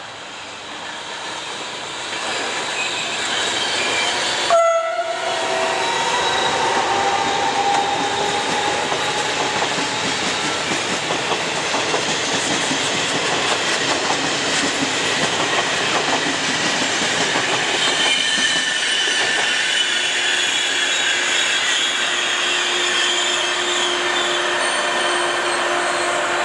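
A train running past close by. Its noise builds over the first few seconds, then holds loud and steady. About five seconds in there is a short horn note, and in the second half there is a high thin squeal from the wheels.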